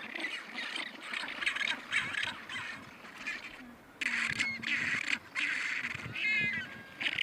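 A series of harsh animal calls, changing abruptly about four seconds in, with a short call rising and falling in pitch near the end.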